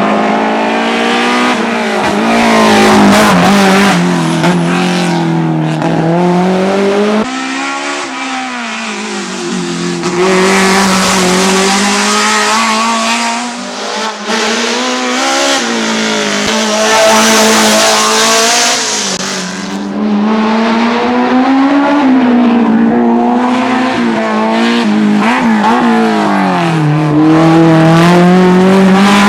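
BMW M3 E30 race car's four-cylinder engine driven hard, its pitch repeatedly climbing through each gear and dropping at the shifts and lifts. A loud hiss joins it through the middle stretch.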